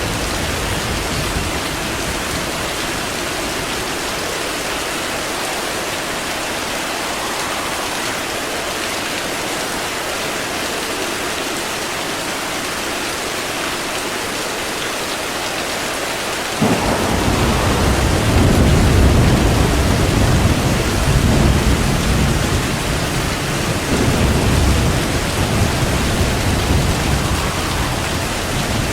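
Steady rain falling, with thunder breaking in suddenly about two-thirds of the way through and rolling on, low and loud, to the end.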